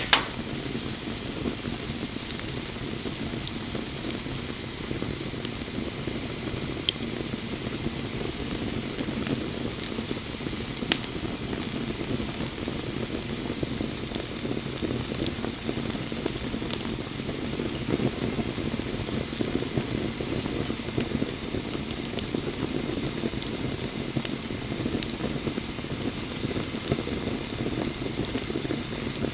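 Wood bonfire burning with a steady rushing hiss of flame, broken by a few sharp crackles and pops at irregular intervals, the loudest right at the start and about eleven seconds in.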